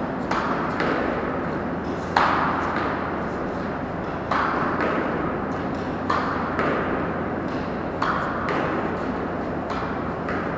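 Tennis ball being hit against a practice wall: sharp racket strikes and the ball's knock off the wall, about one every one to two seconds, some in quick pairs.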